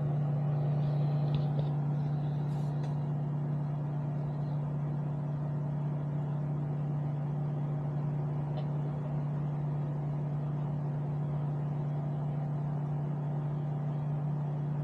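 Small 0.6 cu. ft. microwave oven running on high, a steady low hum with its overtones, heating a cup of water. A few faint ticks sound in the first few seconds and once midway.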